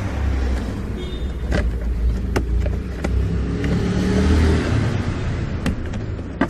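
Steady low rumble with a few sharp clicks as the plastic trim covers around a Hyundai i30's steering column are unscrewed and pulled off.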